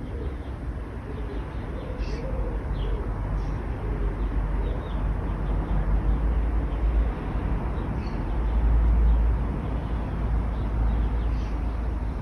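Outdoor ambience of steady road-traffic rumble that swells around eight to ten seconds in, with scattered short bird chirps and a dove cooing in the first few seconds.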